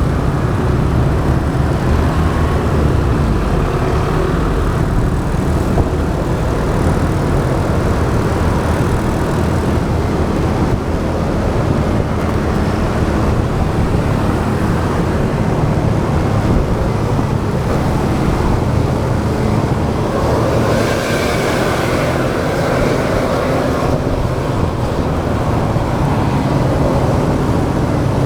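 Motorbike riding through traffic: steady engine, road and wind noise on the rider's camera, with a louder passing vehicle from about 20 to 24 seconds in.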